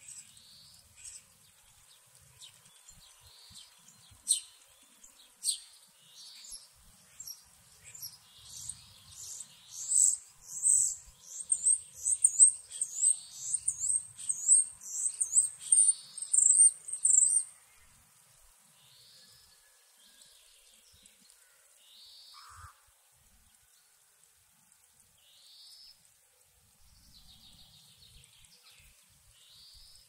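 Songbirds singing in a forest. Midway, one bird repeats the same high note about twice a second for several seconds, the loudest sound here, while other birds give scattered shorter calls throughout.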